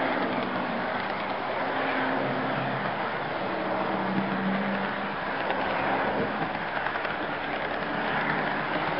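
HO scale model train running along the layout track, heard from a camera riding on one of its flatcars: a steady rolling rattle of wheels on rail with a low motor hum that grows stronger about four to five seconds in.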